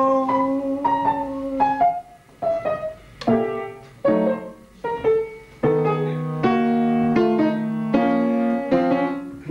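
Piano accompaniment: a held note rings for the first two seconds, then the piano plays a series of separate chords, each struck and left to die away before the next.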